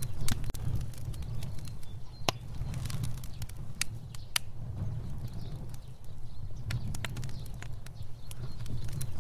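Fire burning: a low steady rumble of flames with sharp crackles and pops scattered irregularly throughout, two louder pops a little after two seconds and past four seconds in.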